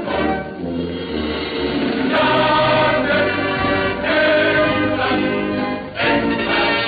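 Period German U-boat music: a choir singing sustained phrases over accompaniment, in old, narrow-sounding recorded sound.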